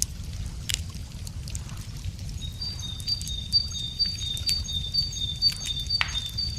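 Wood fire crackling with sharp irregular pops over a low steady rumble. From about two and a half seconds in, a bird sings a high two-note phrase repeated several times.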